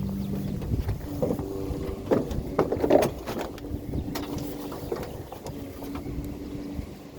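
A vehicle running, with steady engine hum and a cluster of knocks and rattles about one to three and a half seconds in.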